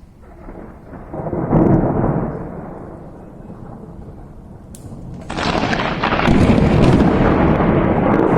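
Thunder: a rumble swells about a second in and dies away. Then a louder, closer clap breaks sharply about five seconds in and keeps rolling.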